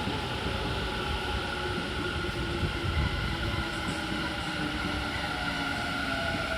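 Electric train at a Tobu Tojo Line platform: a low rumble with a steady motor whine, and a lower tone that slowly falls in pitch.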